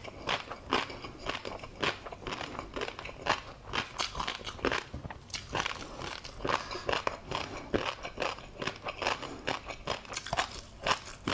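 Close-miked eating of tobiko (flying fish roe) with a crunchy seafood topping: a quick, uneven run of crunchy clicks as the roe and topping are bitten and chewed.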